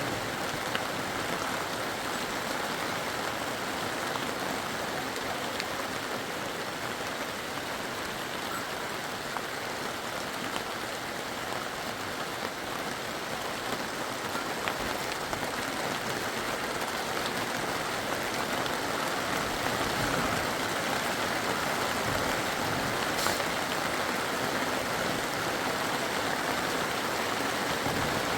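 Steady hiss of water, rain or running floodwater, with no break, growing slightly louder about two-thirds of the way through.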